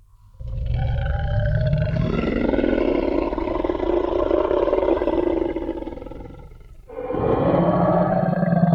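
Designed Tyrannosaurus rex roar sound effect: a long, rough, deep roar of about six seconds that fades out, then a second roar starting near the end.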